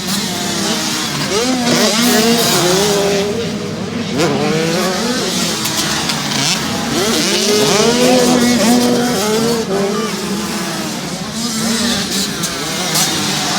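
Two-stroke motocross bikes running hard around a dirt track, their engines repeatedly revving up and dropping back through the gears, with more than one bike heard at once.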